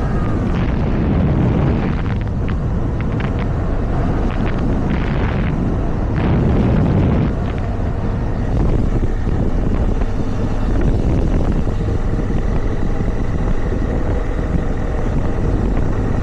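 Motorcycle running at road speed on asphalt, its engine steady under heavy wind noise on the microphone.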